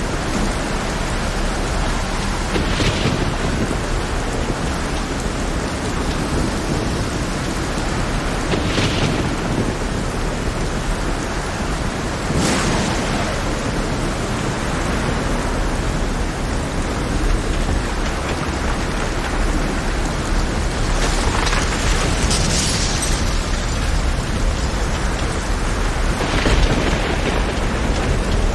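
Heavy rain pouring steadily over a rough sea, with several brief louder surges every few seconds.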